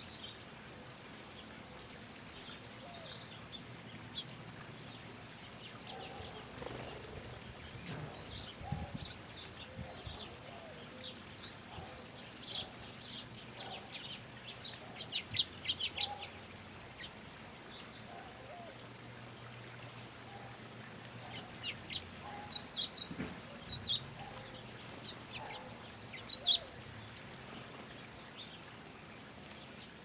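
Small birds chirping in short, high calls, with two busy flurries of rapid chirps, one just before the middle and one about three-quarters of the way through, over a faint steady low hum.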